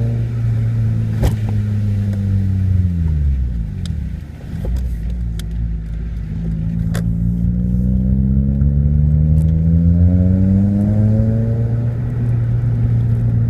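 2004 Honda Civic coupe's 1.7-litre four-cylinder engine through an aftermarket cat-back exhaust: the revs hold, drop about three seconds in, then climb steadily and hold before falling again near the end. Two sharp clicks come through, one early and one about halfway.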